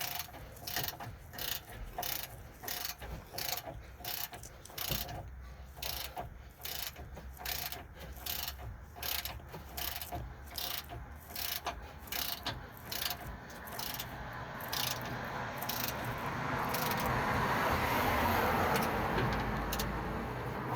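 Hand ratchet wrench clicking in regular strokes, about two a second, as the sway bar link nuts are cranked down. After about fourteen seconds the clicking thins out and a steady rushing noise swells up and becomes the loudest sound.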